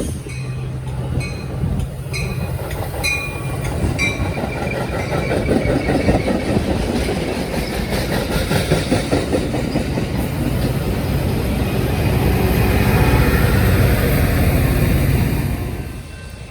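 Train passing on the tracks: wheels clicking over rail joints, then the dense rumble of the passing cars building louder and dropping off sharply near the end.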